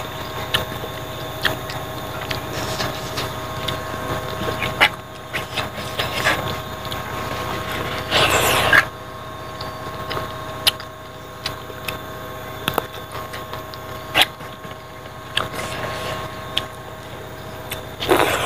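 Close-up eating sounds: chewing and lip smacks in scattered short clicks as rice and pork trotter are eaten by hand off a banana leaf, over a steady background hum. A louder, noisier burst comes about eight seconds in.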